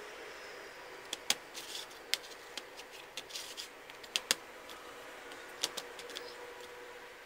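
Irregular sharp clicks and clacks of small wooden puzzle pieces being handled and knocked together, over a faint steady hum.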